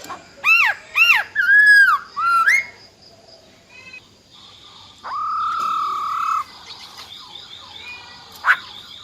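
Black-throated laughingthrush (female) calling: four loud slurred whistles that rise and fall in quick succession, then a pause and one long level whistled note about five seconds in, with a short sharp note near the end. Fainter chirps run underneath.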